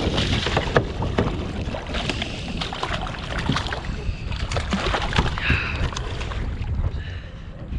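Wind rumbling on the microphone over water splashing and slapping around a fishing kayak, with scattered short knocks and clicks.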